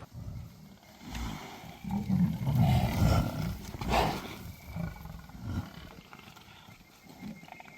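Lions growling in rough, low bursts, loudest from about one to four seconds in, with another short growl a little later.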